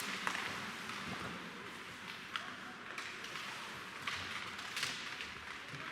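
Ice hockey play in a rink: skate blades scraping and hissing on the ice, with a few sharp clacks of sticks and puck scattered through.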